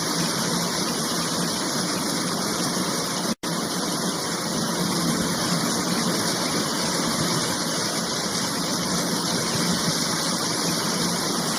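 Steady rushing roar of the Düden waterfall's falling water, with a momentary gap about three seconds in.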